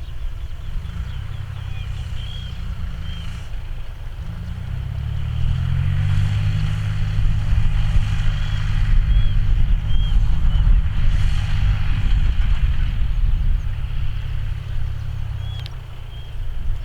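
John Deere 5045D tractor's three-cylinder diesel engine running under load while ploughing, a steady low drone that grows louder about five seconds in and eases off near the end.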